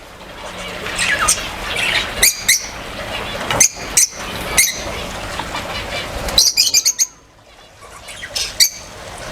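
Aviary birds chirping in short sharp calls, with wing flapping. A quick run of calls comes just past six seconds in.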